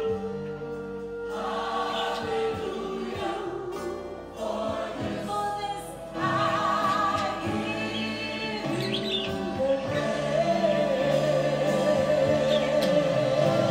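Gospel choir music, with several voices holding long notes with vibrato; it swells louder about halfway through.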